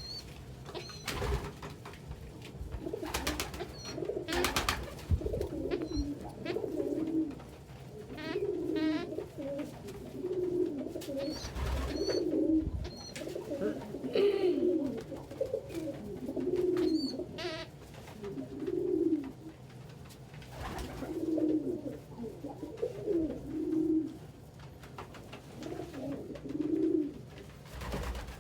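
Domestic pigeons cooing over and over, one low warbling coo after another, with a few sharp clicks and short high chirps in between.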